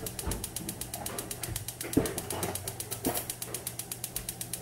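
Steady, rapid mechanical ticking, about eight ticks a second, with a few soft knocks of kitchenware being handled, the sharpest about two seconds in.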